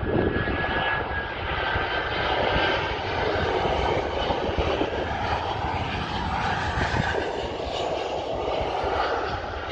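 Airliner engines running steadily, a dense rushing noise with a thin high whine over it in the first few seconds.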